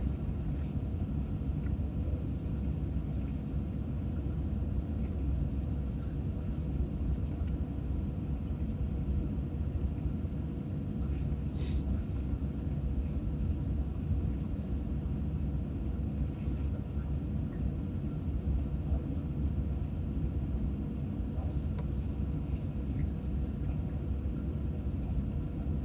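Steady low rumble with a faint steady hum, and one brief high hiss about twelve seconds in.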